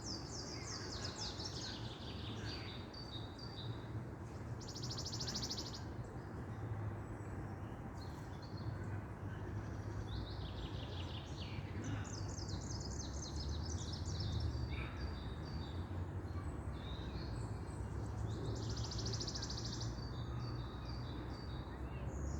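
Songbirds singing in a forest: a repeated song of quick descending trills and a dense buzzy rattle comes back every eight seconds or so, over a steady low rumble.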